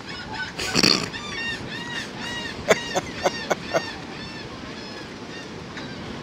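A bird calling in a quick run of short, arched, honking notes, several a second for about four seconds. A brief loud rush of noise comes about a second in, and a handful of sharp clicks come in the middle.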